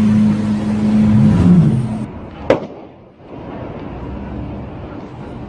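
Car engine running at a steady pitch, with another engine's pitch sweeping up and down, cut off abruptly about two seconds in. A single sharp crack follows, then quieter steady road and traffic noise.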